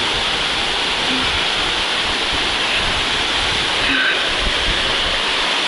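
Waterfall rushing with a steady roar, with uneven low rumbling underneath.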